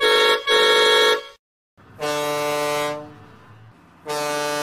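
Vehicle horn sound effects: two short honks, then after a pause two longer, deeper horn blasts.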